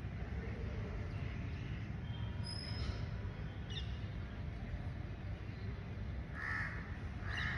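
Birds calling outdoors: a few short chirps, then two loud calls in quick succession near the end, over a steady low rumble.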